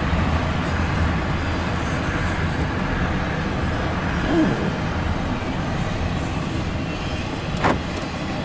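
Intermodal freight train cars rolling past, heard from inside a car: a steady rumble of steel wheels on rail, with one sharp clank about three quarters of the way through.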